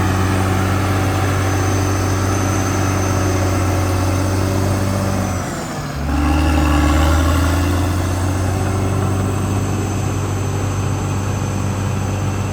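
CAT D6R XL bulldozer's diesel engine running steadily. About halfway through it dips briefly, then comes back deeper and louder for a second or so before settling again.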